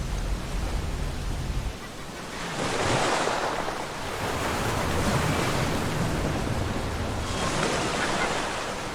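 Ocean waves breaking on a beach: two surges of surf, the first about two and a half seconds in and the second about five seconds later. Wind rumbles on the microphone at the start and stops about two seconds in.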